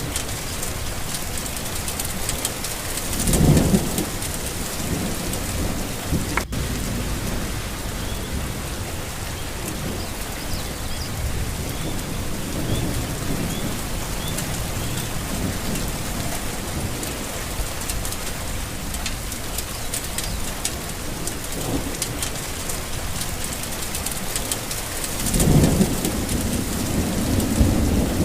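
Steady rain falling, with thunder rumbling low twice: about three seconds in, and again near the end.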